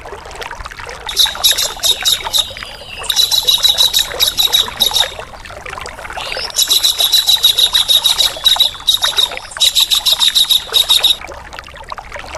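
Harsh, fast rattling bird calls, a 'besetan kasar' from a kingfisher and grey-cheeked bulbul songbird master recording, in four bursts of rapid repeated notes, about a second in, near three seconds, near the middle and near the end. They are heard over a steady trickling water sound.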